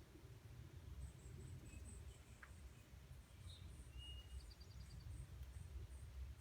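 Near silence: a low steady room rumble with faint, high-pitched bird chirps repeating a few times a second and a short rapid trill about four and a half seconds in.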